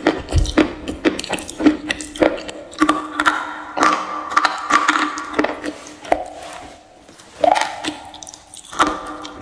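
Crisp crunches of a grey, chalky eating stone bitten and chewed close to the microphone, about two sharp cracks a second. They ease off into a quieter stretch a little past the middle, then pick up again near the end. A faint steady hum runs underneath.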